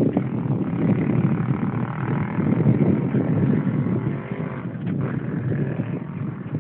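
Steady rumbling and rattling of a mountain bike rolling over rough trail, with wind on the microphone. A fainter whine rides over it through the middle.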